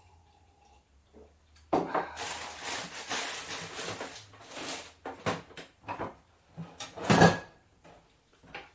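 Kitchen clatter of dishes and utensils being handled: a sudden burst of dense rattling and rustling that lasts about three seconds, then a few separate knocks, with the loudest, a sharp clack with a brief ring, near the end.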